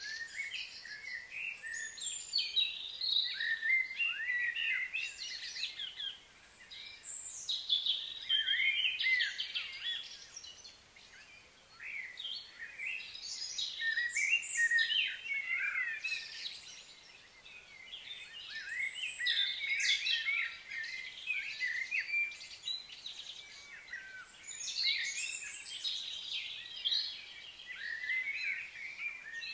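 Birds chirping and twittering in a busy chorus, many short calls overlapping, easing off briefly twice.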